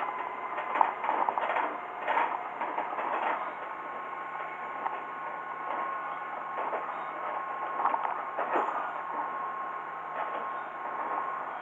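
Heisei Chikuho Railway diesel railcar running along the line, with a steady hum that sets in about three and a half seconds in and a few clicks of the wheels over rail joints.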